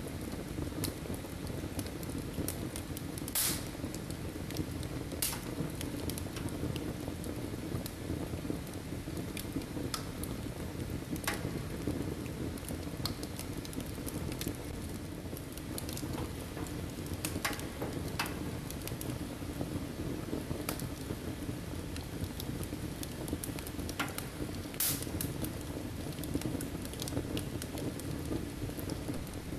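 Firewood burning in a fireplace: a steady low rushing of the flames with scattered sharp crackles and pops, the loudest a few seconds in and again near the end.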